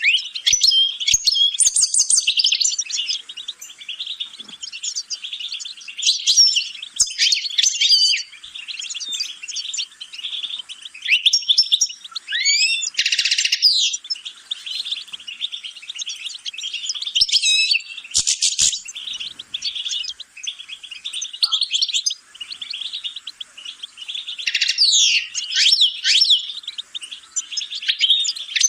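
European goldfinch singing a long, fast, twittering song of rapid chirps and trills, with louder sweeping notes about 13 seconds in and again near the end.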